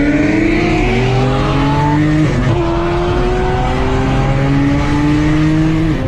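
Car engine accelerating hard: its pitch climbs steadily, drops sharply about two seconds in at a gear change, then climbs again through a long pull in the next gear.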